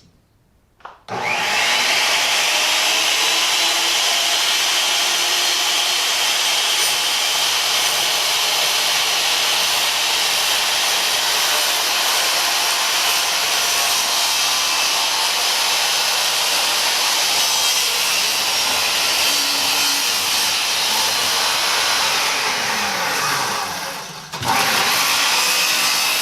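Circular saw spinning up about a second in and cutting through a sheet of oriented strand board in one long steady pass. It winds down near the end and is started again straight away.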